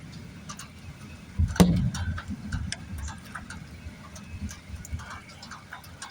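Low rumble of thunder from a passing storm, with one sharp crack about a second and a half in, and scattered light ticks of rain.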